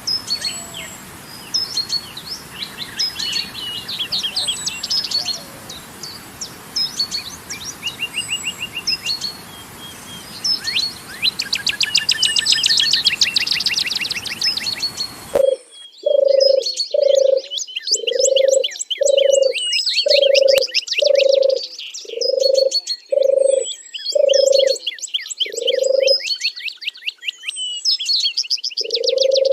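Songbirds chirping and trilling over the steady rush of flowing water. About halfway through, the water noise cuts off abruptly, and a low call repeated about once a second joins the chirping birds.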